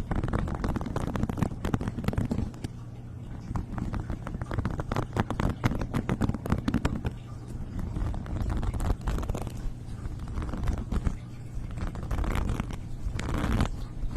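ASMR trigger sounds made close to the microphone: rapid irregular clicking and scratching over a low rumble, thinning out around the middle and picking up again near the end.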